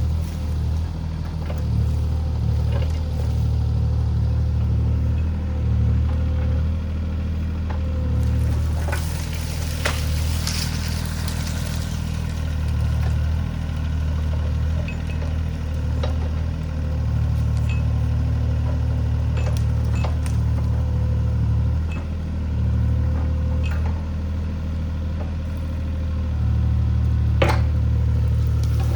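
Mini excavator's diesel engine running steadily under working load during tree clearing, with a few sharp cracks scattered through, such as wood snapping.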